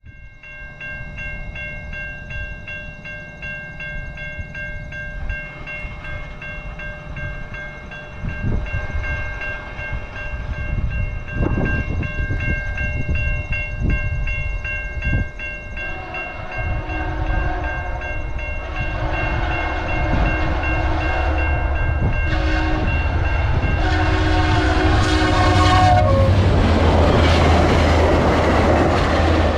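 A level-crossing warning bell rings steadily. About halfway through, a locomotive's horn sounds in several blasts as the train comes up to the crossing. Near the end, the train passes close with a loud rush and a low diesel rumble.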